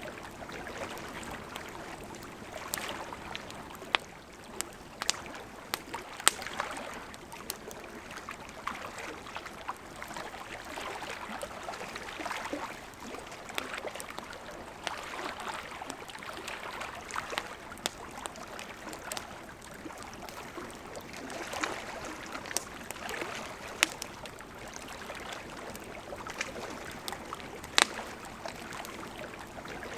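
Wood campfire crackling, with sharp pops scattered throughout and a few louder snaps, over the steady rush of a gently flowing river.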